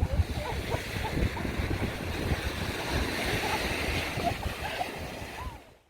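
Sea waves washing in, with wind buffeting the microphone and faint voices in the background; the sound fades out near the end.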